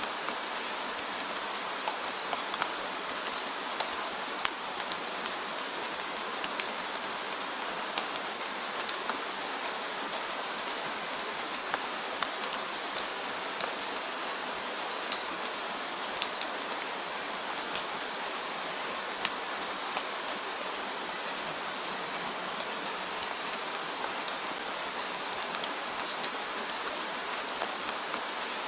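Steady rain falling, with a dense hiss and many scattered sharp drip ticks of individual drops hitting a surface.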